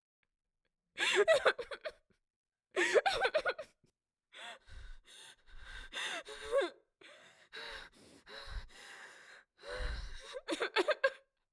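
A person crying: gasping, sobbing breaths in short bursts with wavering pitch, broken by brief silences.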